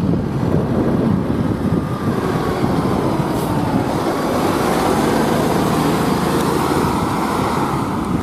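Fire engine's diesel engine running steadily as the rig drives, a loud low rumble.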